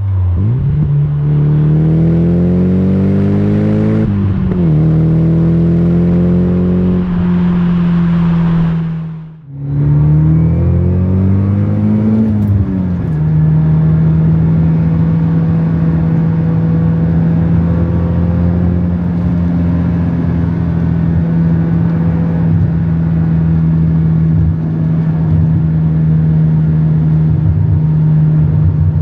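Nissan S15 Silvia's SR20 four-cylinder engine running through a newly fitted custom titanium Yashio Factory 'Super Silent' exhaust. The revs rise and fall a few times, with a brief drop-out about nine seconds in, then settle into a steady idle.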